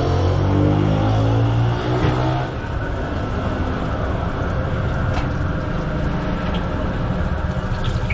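A motor vehicle engine speeding up, its pitch rising over the first couple of seconds, then a steady low rumble of engine and traffic noise.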